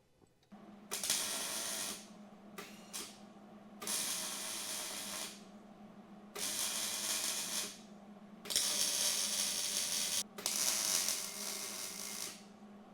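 Welding in short bursts: about six one-to-two-second runs of hissing noise with brief pauses between them, over a steady low hum.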